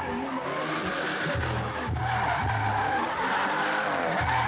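A car drifting, its tyres squealing on the pavement, louder from about halfway through, with a heavy bass beat of music underneath.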